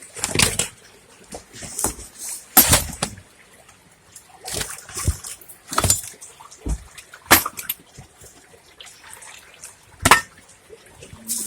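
Floodwater splashing and sloshing in irregular bursts, about one every second or two, as someone wades and moves through it, over a faint trickle of running water.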